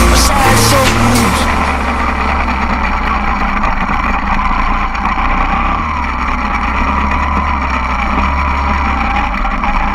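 Mini dirt bike engine running under way, its note dipping and then climbing again near the end as the revs change, after the tail of a song fades out in the first second or two.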